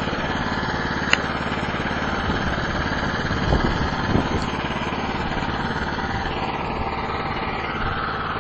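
Small snowblower engine of a cheap Chinese-made machine running steadily at about 1/8 throttle, warming up after a cold start. A sharp click sounds about a second in.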